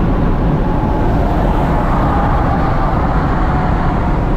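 Straight-piped Lexus SC430's 4.3-litre V8 running under way, a steady loud exhaust drone mixed with road and wind noise heard from inside the car.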